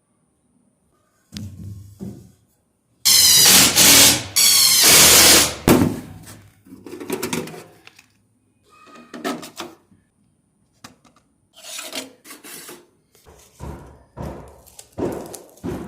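Installation work noises: a loud rushing burst lasting over two seconds about three seconds in, then scattered knocks and rubbing as tools and materials are handled.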